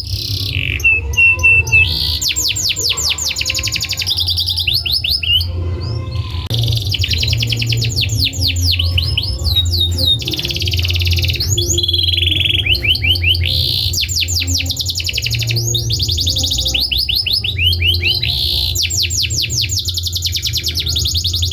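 Domestic canary singing a long, continuous song of fast repeated trills, changing from one trill type to the next every second or two, over a low steady hum.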